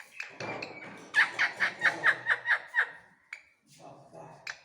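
Parrot giving a quick run of about eight short, sharp calls, roughly four a second, starting about a second in.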